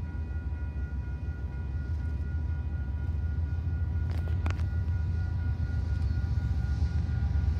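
Diesel freight locomotive approaching, its low engine rumble slowly growing louder, with two sharp clicks about four seconds in.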